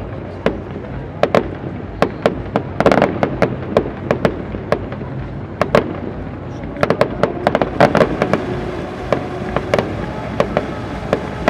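Fireworks display: aerial shells bursting in a string of sharp bangs at uneven intervals, with denser runs of rapid reports about 3 seconds in and again from about 7 to 8.5 seconds.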